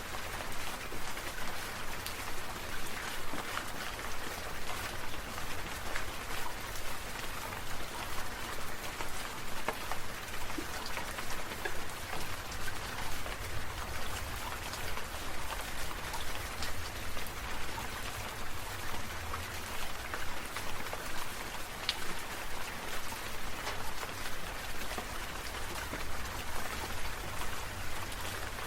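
Steady rain falling, a continuous patter with many separate drops ticking, over a faint low rumble.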